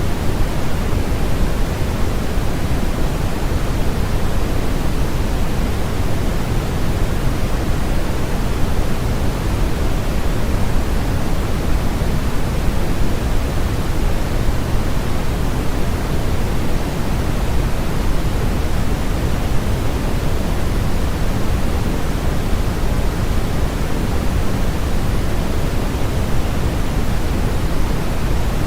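Steady, unchanging electronically generated noise of the kind sold as white noise for sleep: an even hiss with no events, heavier in the low end than in the highs.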